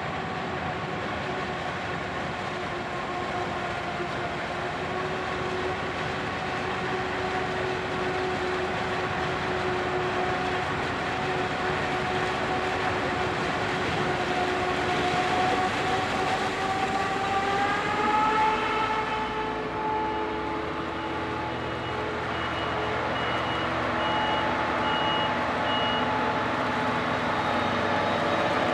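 Heavy vehicle running with a steady whine that rises in pitch a little past halfway, then levels off. This is followed by a row of short high beeps, about one a second, for several seconds.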